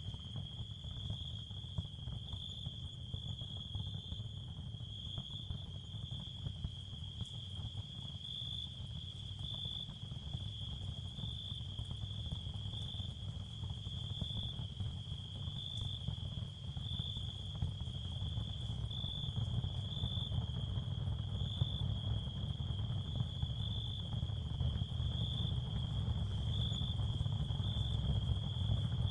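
Ambient sound bed of crickets trilling steadily on one high pitch, over a low rumble that swells slightly near the end.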